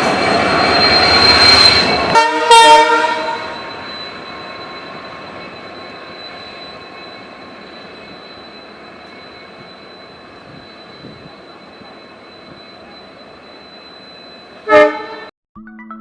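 A train going by: loud running noise for about two seconds, then a short horn blast. The rumble fades slowly, a steady high whine above it, and a brief horn toot sounds near the end.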